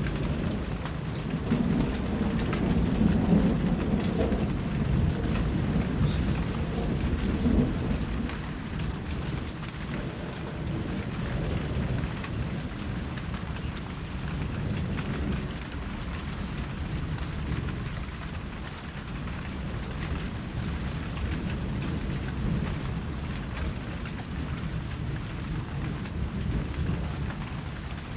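Steady rain falling, with a long low rumble of thunder that swells a second or two in and fades out over the next several seconds.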